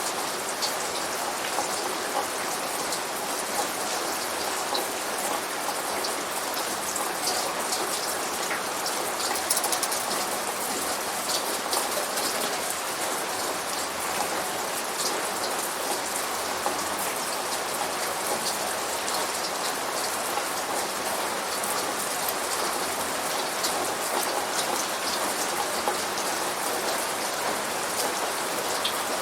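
Steady rain falling, an even wash of noise with many separate drops ticking on a surface.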